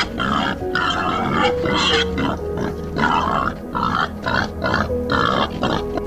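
Peccary grunting, a run of short grunts roughly one every half second to second.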